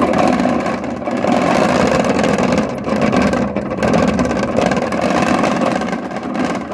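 Activator-type washing machine running, with a fast, continuous knocking clatter: the sign of a broken activator, whose bushing and seal are worn.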